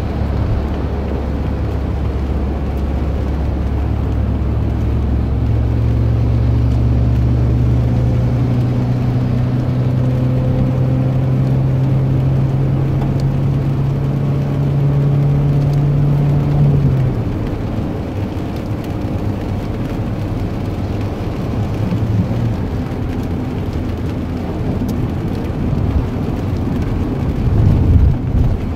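A steady low engine or motor hum whose pitch shifts in a few steps, over a noisy background.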